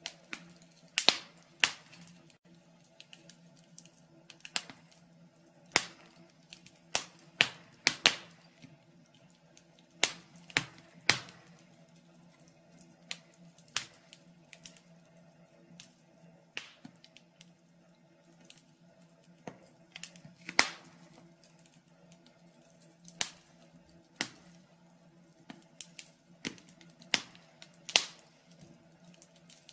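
Wood fire in a fireplace crackling, with irregular sharp pops and snaps of varying loudness over a faint steady hum.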